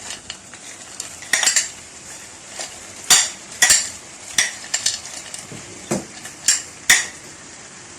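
A utensil stirring vegetables in a paella pan, with irregular clicks and knocks against the pan over a faint sizzle.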